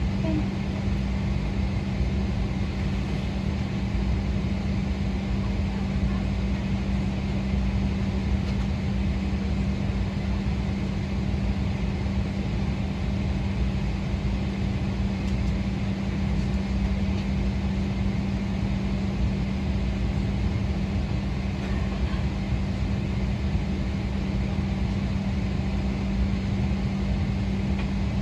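Steady cabin hum inside a Boeing 777-300ER, with a constant low drone tone over an even rush of air and systems noise, unchanging throughout.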